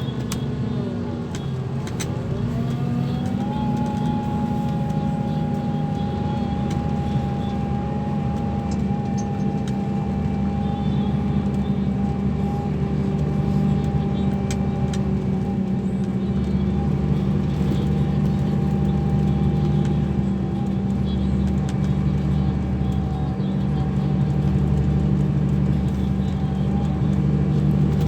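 Scania K340 coach engine running steadily. Its note dips briefly and climbs back about two to four seconds in, then holds level.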